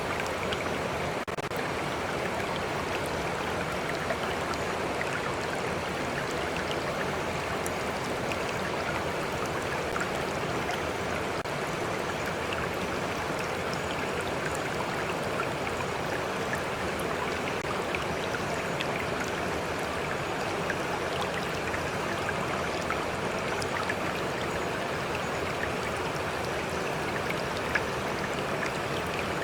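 Stream water flowing steadily, a continuous even rush with small splashes and drips scattered through it.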